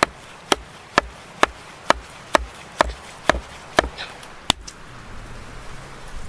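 A blade chopping wood in steady, evenly spaced strokes, about two a second, ten strokes in all, stopping about four and a half seconds in.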